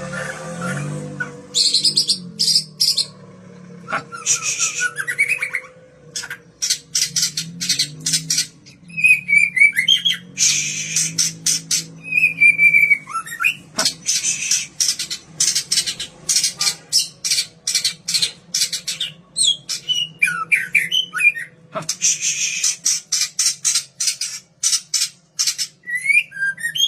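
White-rumped shama (murai batu) singing: fast runs of sharp clicking, rattling notes mixed with short whistled phrases that slide up and down.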